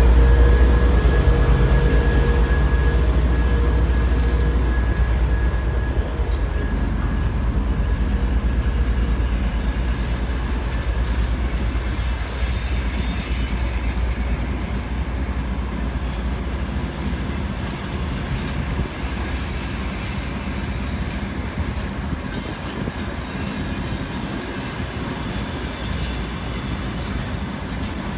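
TEP70BS diesel locomotive's engine running under load as it pulls out, a heavy low drone with a steady whine that fades over the first several seconds as the locomotive moves past. Then passenger coaches rolling slowly by on the rails, an even running noise that gradually grows quieter.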